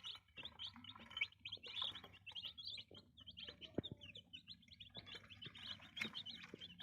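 A brood of Gimmizah chicks peeping continuously, many short high chirps overlapping, with a light knock a little past the middle.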